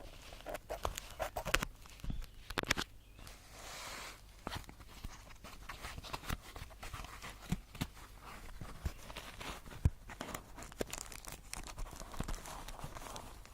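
Hands handling an opened package of small plastic parts: scattered clicks and taps, with a stretch of plastic rustling about three to four seconds in.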